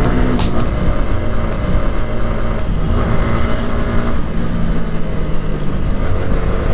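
Motorcycle engine running steadily while under way, with wind noise over the helmet-mounted microphone.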